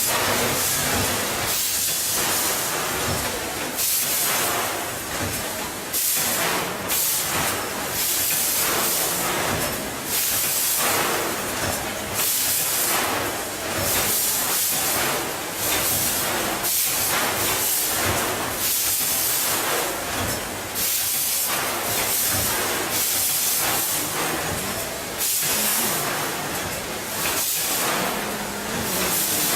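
Peanut packaging machine running, with a hiss that swells in repeated surges about every second and a half.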